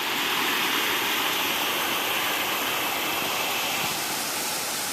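Rushing water of a waterfall and stream, a steady hiss that eases slightly about four seconds in.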